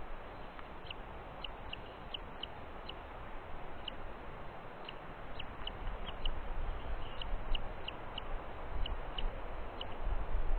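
Small birds chirping: short, high chirps repeated irregularly, over a steady hiss. A low rumble grows louder in the second half.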